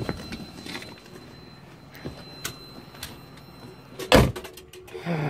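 A few light clicks, then a single loud thump about four seconds in, with a faint steady high whine that stops just before it.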